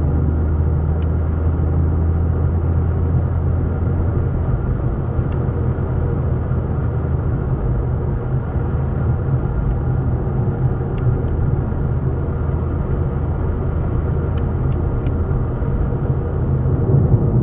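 Steady low rumble of a running motor vehicle, with a few faint ticks.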